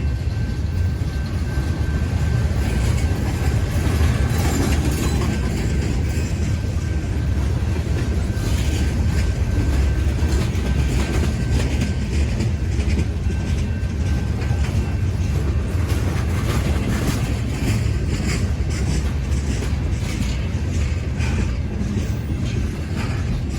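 Freight cars of a long train rolling past slowly: a steady low rumble with the clickety-clack of wheels over rail joints and a faint, steady, thin squeal.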